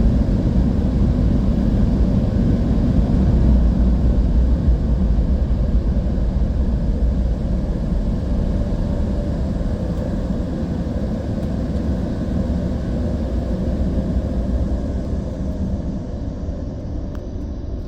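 Automatic car wash air dryers blowing, a steady rumbling roar heard from inside the car that slowly fades toward the end.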